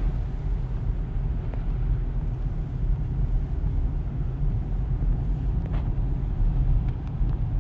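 Steady low rumble of a car's engine and tyres heard from inside the cabin while driving, with a couple of faint clicks near the end.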